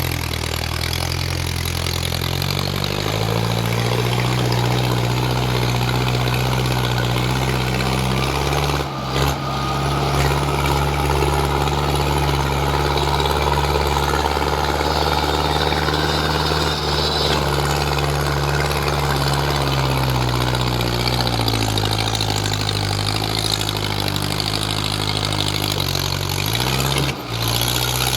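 Mahindra Arjun 555 tractor's diesel engine running hard under heavy load, hauling a trolley full of soil up a steep ramp. The engine note rises about three seconds in, holds, sags around twenty seconds in, and climbs again near the end, with two brief dips in level.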